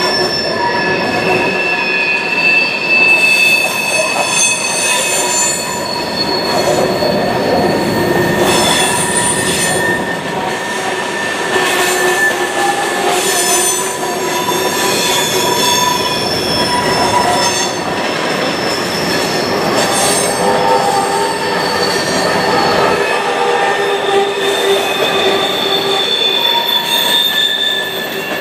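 Freight train cars rolling past, their steel wheels squealing against the rails in several high, steady tones that shift and overlap, over a continuous rumble of wheels on track.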